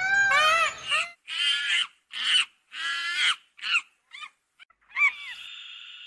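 Animal calls: a quick series of short, high-pitched cries, some arching up and down in pitch, followed about five seconds in by a steady high tone.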